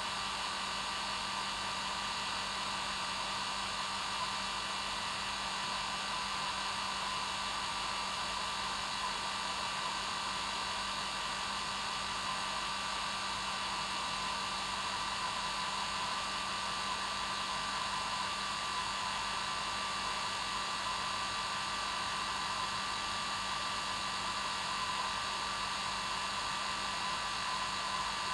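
Hair dryer running steadily: an even rushing of air with a low hum and a high whine from its motor, unchanging throughout.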